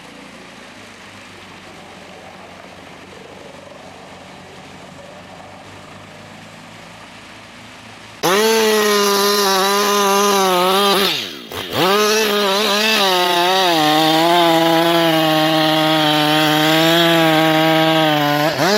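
A steady, quieter machine noise, then about eight seconds in an abrupt cut to a two-stroke Husqvarna chainsaw running at high revs. Its pitch wavers and drops sharply once about three seconds after it starts, and again near the end.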